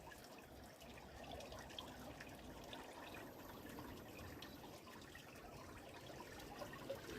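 Faint trickling water from the water mill's stream, with scattered small drips.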